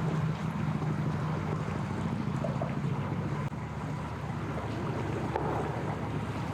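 Boat motor running steadily with a low hum, with wind noise on the microphone.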